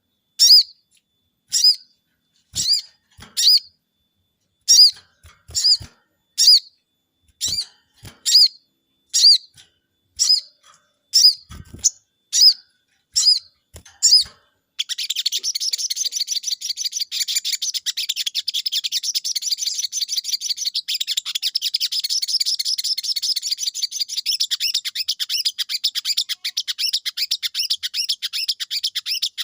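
Caged sogon songbird calling: single high, short notes about once a second, then from about halfway it suddenly breaks into a fast, unbroken twittering song that carries on.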